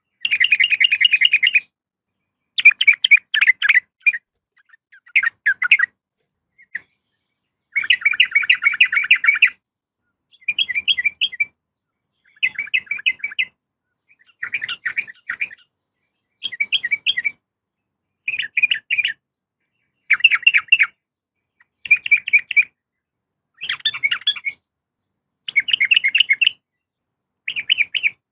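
Sooty-headed bulbul (trucukan) calling in short bursts of rapid chattering notes, each about a second long and repeated roughly every two seconds; the call is presented as a female calling a male.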